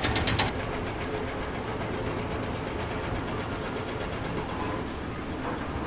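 Steady mechanical rumbling noise, opening with a brief fast rattle of clicks that stops about half a second in.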